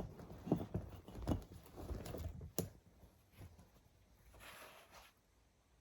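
Clothing and belongings being handled: a few soft knocks and rustles in the first three seconds, then a short rustle of fabric about four and a half seconds in.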